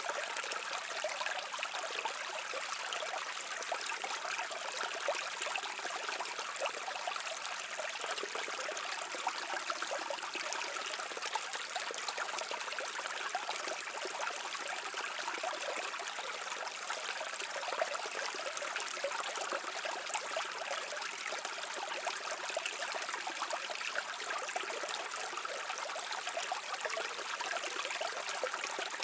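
Brook water trickling and burbling steadily over stones, a continuous even rush with fine splashing detail.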